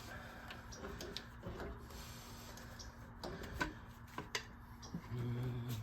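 Scattered light clicks and taps of hand tools being handled while working on header bolts, irregular rather than a steady ratchet rhythm. A brief low hum comes in about five seconds in.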